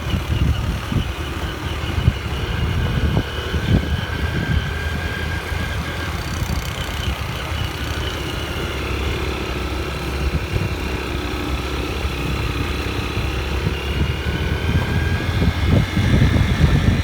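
Motorbike engine running while riding, with wind gusting over the microphone.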